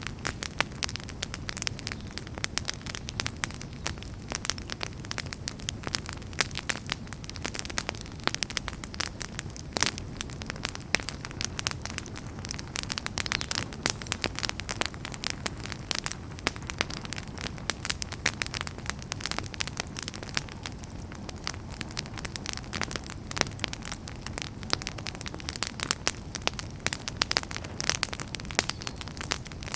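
Wood fire burning with dense, continuous crackling and popping over a low, steady rumble of flames.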